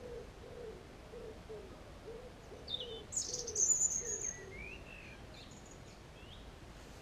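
A pigeon cooing in a run of short, low, evenly repeated notes. A small songbird's high chirps and a brief song come in over it about three seconds in, and are the loudest part.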